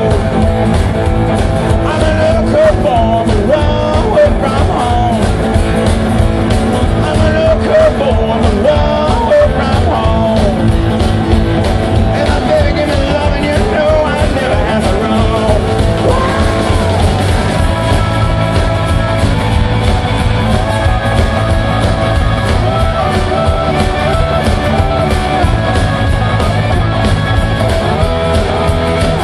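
Live rock band playing loudly, with a singing voice over the instruments.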